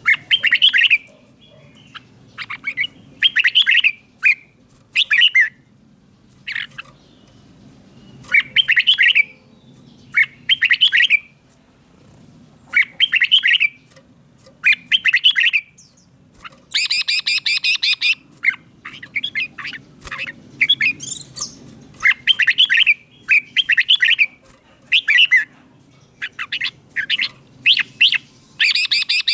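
Red-whiskered bulbul singing: short, bright warbled phrases repeated every second or two, with one longer, harsher phrase a little past the middle.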